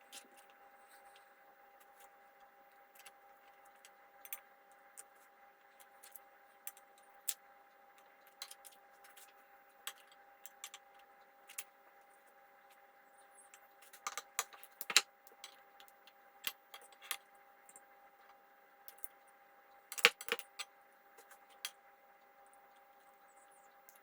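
Scattered light clinks and taps of utensils against a plate and dish while spaghetti is served out, with two busier flurries of clinking past the middle and about two-thirds through. A faint steady hum sounds underneath.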